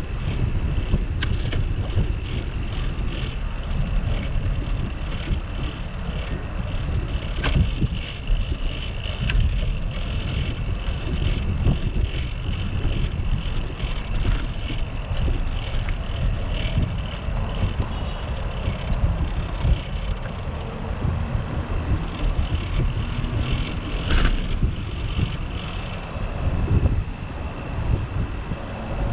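Wind buffeting the microphone of a bicycle-mounted camera while riding, a steady low rumble with a few sharp clicks and knocks from the bike, about a second in, near 7 and 9 seconds, and once more near the end.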